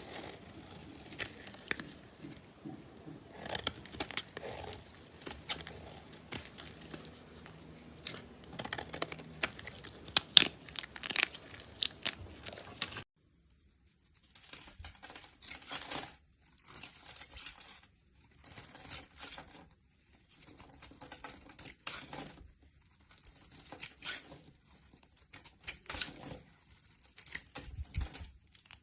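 Close-miked crackling and crunching of a soft crunchy material being squeezed and cut. After an abrupt change about 13 s in, it comes as a series of separate strokes, each a second or so long, with silence between.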